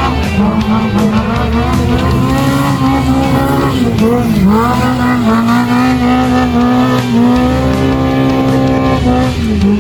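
Rally vehicle's engine held at high revs, with a steady high note that drops sharply and recovers twice, like gear changes, over background rock music.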